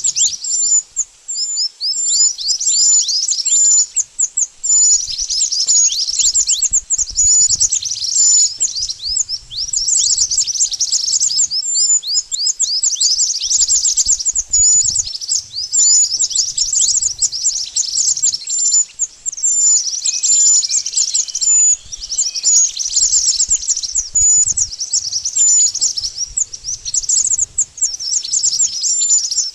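Mantenan bird calling: fast runs of thin, very high chirps, each note slurring quickly downward, repeated with only brief gaps.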